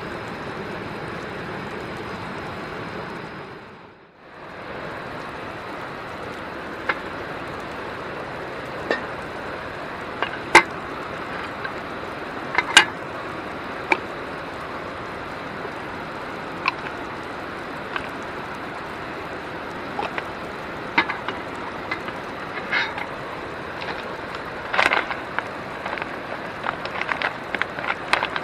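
Steady rushing of a river, briefly dropping away about four seconds in. Scattered sharp clicks and knocks sound over it from about seven seconds on, coming more often near the end.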